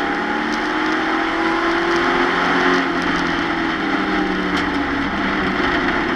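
Race truck's engine running under load, heard from inside the cab, its pitch easing down and back up slightly, with a few light rattles and ticks from the chassis and cab.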